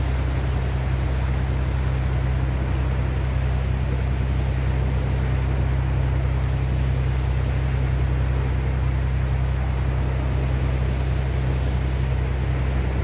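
Wind and sea waves: a constant wash of noise over a steady low rumble, with no single events standing out.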